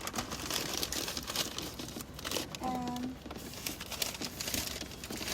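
Crinkling and rustling of a takeaway bag being handled, with a brief steady tone a little before halfway through.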